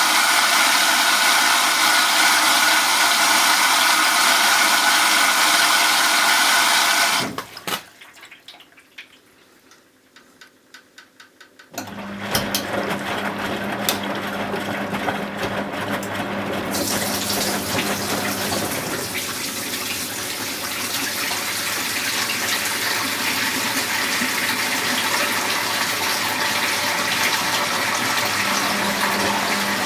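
Zanussi Z913 washing machine: a steady running noise stops about seven seconds in, and a few clicks follow in the quiet. Then water rushes in through the inlet valve with a steady low hum as the machine fills with water.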